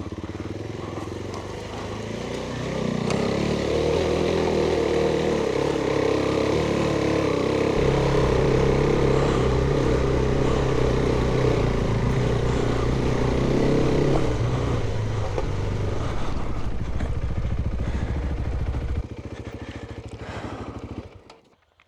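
Off-road adventure motorcycle engine running under load as it pushes up a steep trail section, pulling harder a few seconds in and held there for several seconds, then easing off and dropping away sharply near the end.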